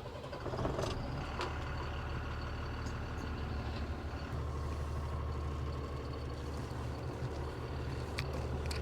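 Cummins diesel engine of a Tata Signa 4225 truck running with a steady low drone, with a few short clicks about half a second, a second and a half and eight seconds in.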